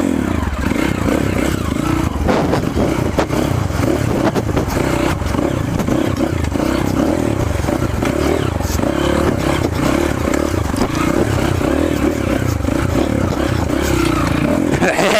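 Off-road trail motorcycle engine running at a steady, pulsing note, with rattling and clatter over it.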